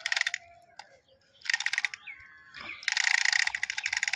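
Toy drumming elephant beating its drum: fast, even clicking taps in two short bursts, then continuous from about three seconds in.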